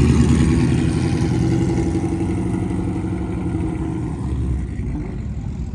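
Car engine and exhaust running steadily, growing gradually quieter.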